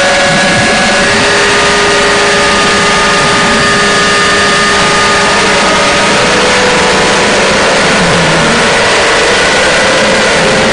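Harsh-noise drone music: a loud, dense wall of distorted noise with several held, droning tones laid over it, steady in level.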